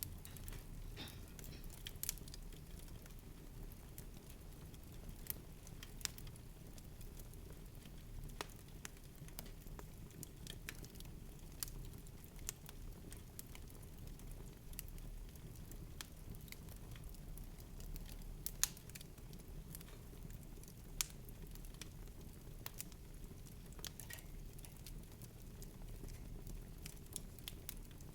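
A low, steady rumble with sparse, light crackles and clicks scattered through it, a few sharper than the rest.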